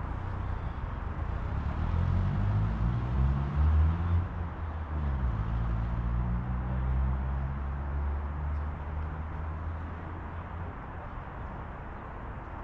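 A motor vehicle's engine passing nearby: a low engine hum that builds over the first few seconds, drops in pitch about five seconds in, then holds and fades away near the end.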